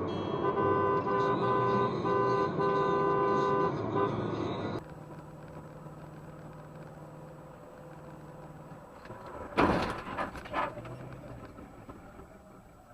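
A car horn honks in a string of short blasts over road traffic. After a sudden drop to a quieter, steady engine hum, a sharp loud bang comes about ten seconds in, followed by two smaller knocks.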